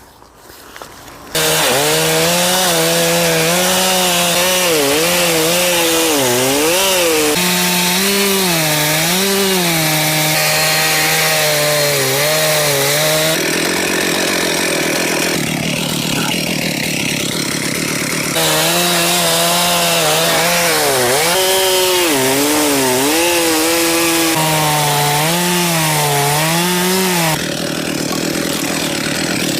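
Chainsaw cutting through a log, its engine note dipping and recovering as the chain bites. For a few seconds in the middle the steady note gives way to a rougher noise, then the cutting resumes.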